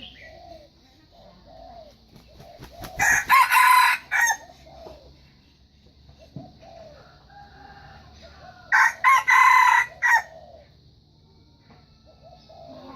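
Red junglefowl cock, a decoy bird with a wild junglefowl's voice, crowing twice, about three seconds in and again near nine seconds. Each crow is short and ends in a clipped final note, with soft low clucking between the crows.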